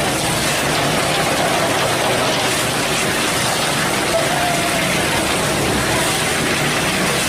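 Hino cement mixer truck's diesel engine running steadily, with a constant rushing noise.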